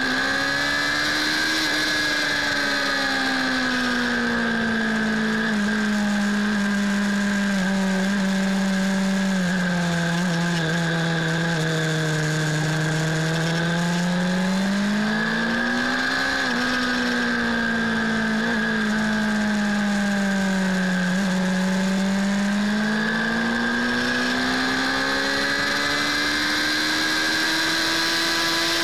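Suzuki Bandit 600's inline-four engine pulling on track, its pitch sinking slowly as the bike slows, rising sharply about halfway through, dipping again and climbing toward the end as it accelerates. Steady wind rush over the handlebar-mounted microphone.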